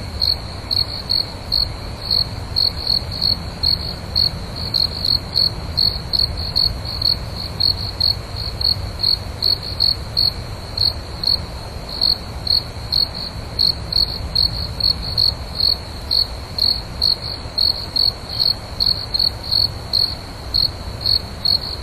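Crickets chirping in a steady, even rhythm, about two to three high chirps a second, over a faint low background rumble.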